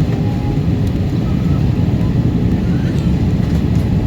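Steady low rumble of an Airbus A320 airliner heard from inside its cabin: engine and airflow noise.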